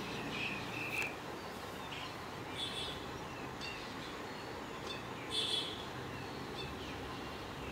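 Birds chirping in short, high calls a few times, the loudest about five seconds in, over a steady low hiss of background noise.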